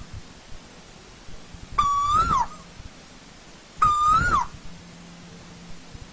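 Asian koel calling: two loud two-part calls about two seconds apart. Each is a held note that lifts slightly and then falls away.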